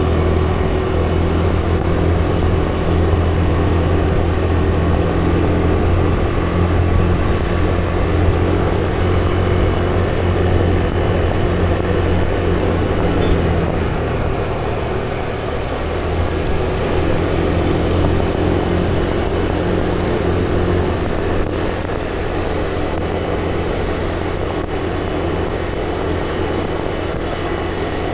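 Vehicle engine running at a steady cruise with rushing road and wind noise; the engine note eases off and shifts briefly about halfway through, then settles again.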